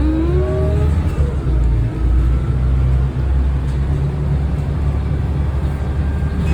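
Volvo B12BLE bus's rear-mounted diesel engine pulling under load, heard from inside the cabin: a heavy, steady rumble with a rising whine in the first second, dipping briefly twice about two and three seconds in.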